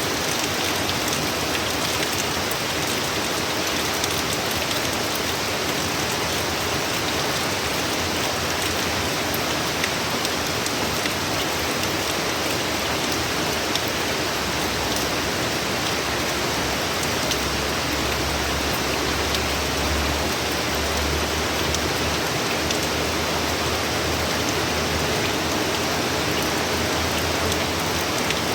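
Hurricane rain falling hard and steadily, an even hiss of water on surfaces. A low rumble comes and goes in the latter half.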